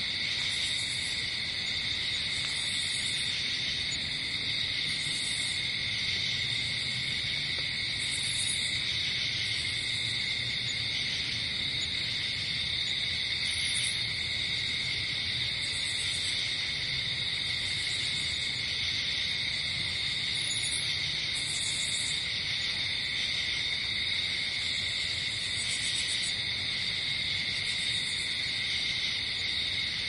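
Night forest ambience: a steady chorus of insects trilling, with short, higher buzzy chirps from another insect coming every few seconds.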